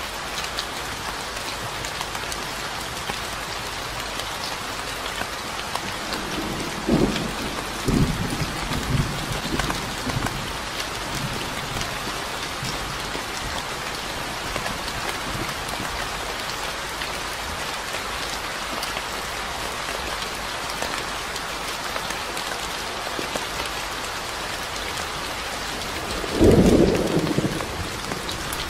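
Steady rain pattering, with low rolls of thunder rumbling about a quarter of the way in and a louder thunder rumble near the end.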